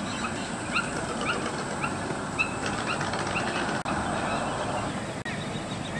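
A small bird chirping: short rising chirps about twice a second, thinning out after about three seconds, over steady outdoor background noise.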